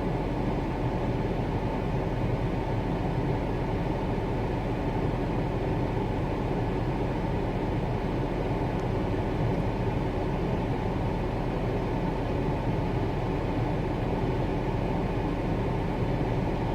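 Steady wind blowing across a phone's microphone as a storm moves in: an unbroken low rumble with no let-up.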